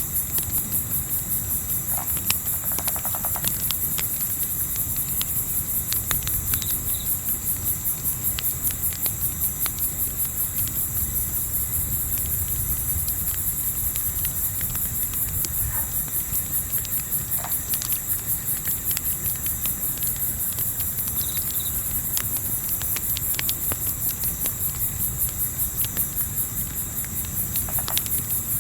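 Crickets chirping in a fast, even pulse over a crackling wood fire, which gives scattered sharp pops, with a low rumble of wind beneath. A few short faint calls break through now and then.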